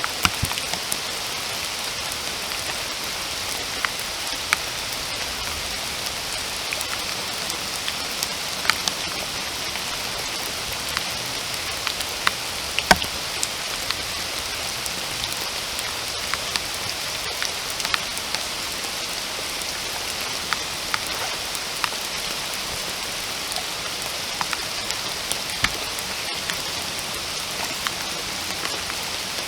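Steady rain falling, an even hiss with many separate drops striking close by, one louder drop about halfway through.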